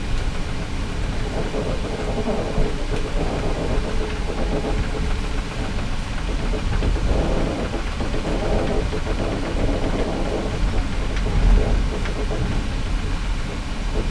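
A moving Indian Pacific passenger carriage heard from inside its cabin: a steady rumble of wheels on the rails, with a few faint clicks.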